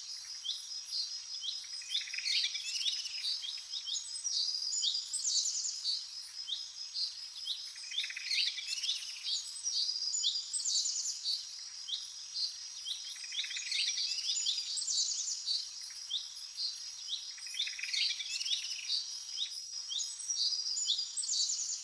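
Birds chirping and calling over and over, short quick chirps with a warbled phrase every couple of seconds, above a steady high-pitched insect drone.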